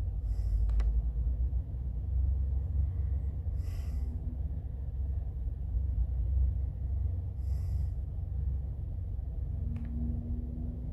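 Steady low rumble, with three short hissing breaths about every three to four seconds.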